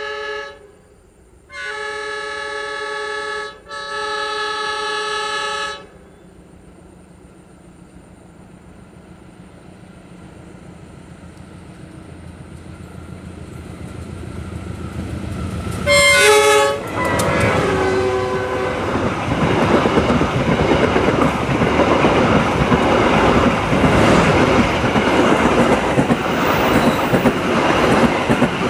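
Diesel locomotive horn of a passenger train giving two long blasts, then the low engine rumble growing as the train approaches. About sixteen seconds in the horn sounds one short blast as the locomotive passes close by, and the coaches go past loudly with wheels clattering on the rails.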